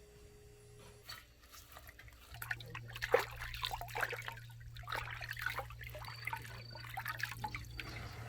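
Water trickling and splashing in quick, irregular drips, starting about two seconds in.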